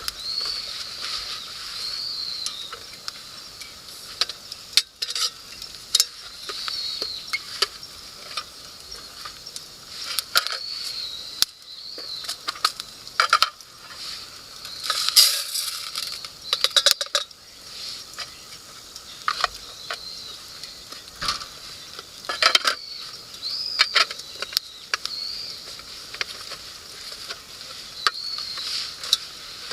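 Metal cooking utensils clinking and scraping against pots and pans over a light sizzle, in irregular sharp clicks. A short high call repeats about every two seconds in the background.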